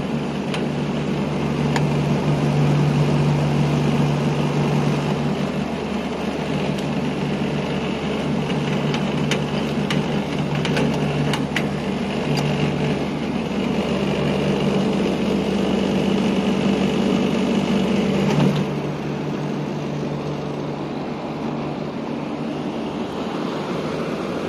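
Precision air-conditioning unit running with a steady machine hum from its compressor and fans, with a few faint clicks. About 18 seconds in the sound changes: the deepest part of the hum drops away after a brief louder moment.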